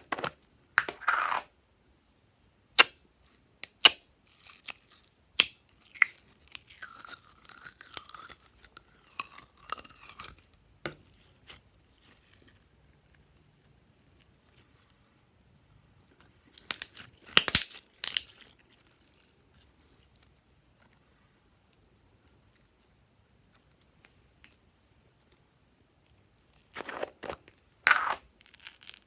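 Glossy slime being mixed and squeezed by hand: scattered sticky clicks and short bursts of sound, loudest about a second in, midway and near the end, with long quiet stretches between.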